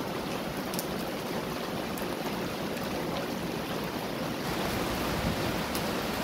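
Rain falling steadily onto shallow floodwater covering a street, the drops splashing into the water as a continuous, even patter with a few sharper drip sounds.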